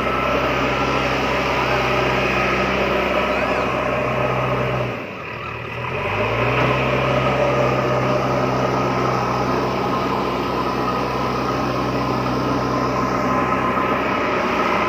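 Small motor of a DIY mini tractor running steadily. About five seconds in it slows and dips, then picks back up to speed.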